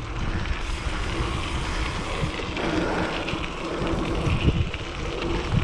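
Wind buffeting the microphone, with a steady low rumble of riding a mountain bike into a headwind.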